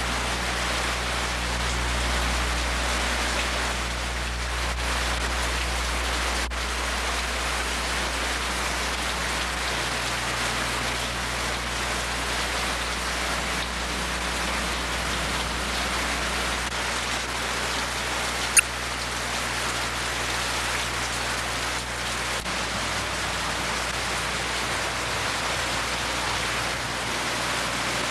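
Steady rain falling, an even hiss, with a low steady hum underneath. A single sharp click comes about two-thirds of the way through.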